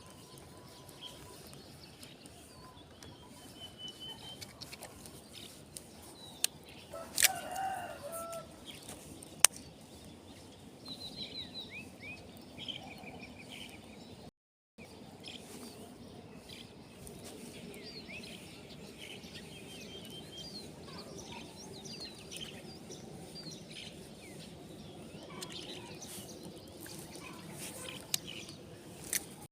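Small birds chirping on and off, with a rooster crowing once about seven seconds in. A few sharp clicks stand out, the loudest about nine seconds in, and the sound cuts out for a moment about halfway through.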